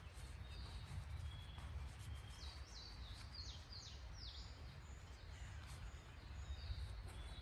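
A songbird calling: short high whistled notes here and there, and a quick run of about seven high falling notes between two and four and a half seconds in, over a low steady rumble.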